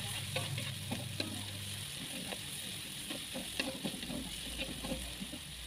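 Ground chilli, shallot and garlic paste sizzling in hot oil in a pan while being stirred constantly, with scattered scrapes and taps of the stirring utensil against the pan: the spice paste is being sautéed until cooked through without burning.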